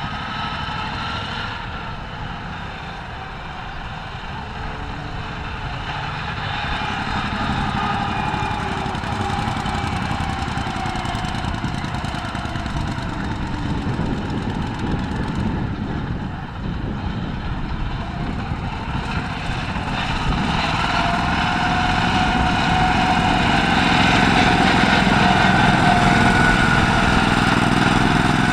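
Tractor engine running, growing louder with a stronger whine in the last third.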